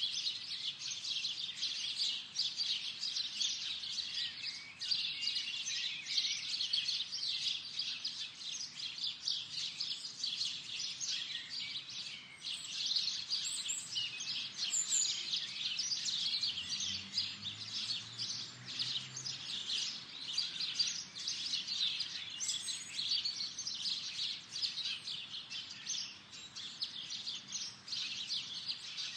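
Birds chirping in a dense, continuous chorus of short high notes, with a few higher whistled notes now and then.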